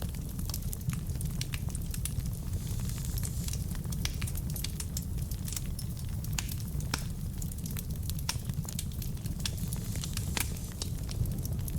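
Wood fire burning in a fireplace: a steady low rumble of the flames with dense, irregular crackles and pops from the burning logs.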